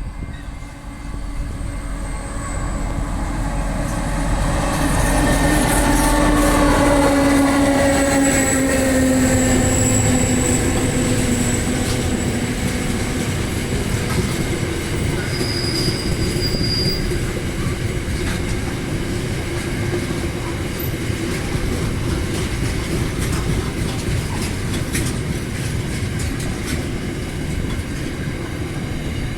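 BL-class diesel-electric locomotives passing close by, their engine note sliding down in pitch as they go past. A long run of rolling wheel noise from the train follows, with a brief high wheel squeal partway through.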